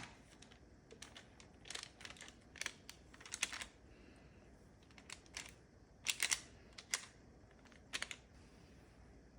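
Light clicks and taps of small hard objects being handled, coming singly and in short clusters at irregular intervals.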